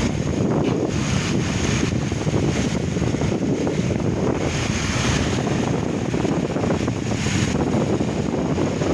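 Passenger train running, a steady rumble and rush of noise with wind buffeting the microphone.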